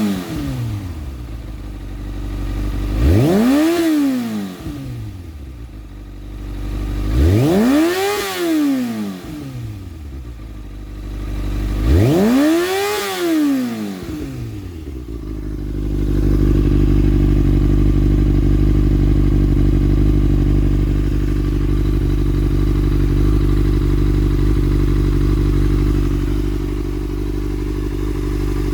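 Kawasaki Ninja ZX-6R 636's inline-four engine through an SC-Project slip-on exhaust, warm: three quick throttle blips, each rising sharply in pitch and falling back, about four seconds apart, then settling into a steady idle about sixteen seconds in.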